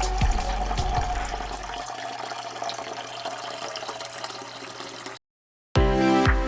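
Liquid pouring and fizzing, with the tail of background music fading out in the first two seconds. The liquid sound cuts off suddenly about five seconds in, and music starts again near the end.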